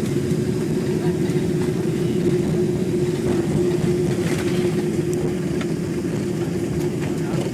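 Cabin noise inside a Boeing 767-300 on the ground just after landing: a steady low rumble of engines and wheels, with a steady hum over it.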